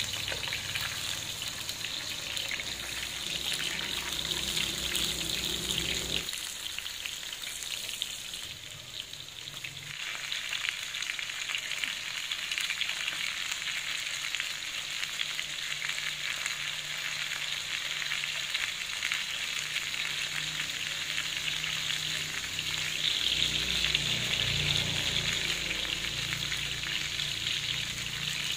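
Sweet potato slices frying in a pan of hot oil: a steady sizzle with fine crackling, which dips briefly about a third of the way through and grows louder for a few seconds past the two-thirds mark.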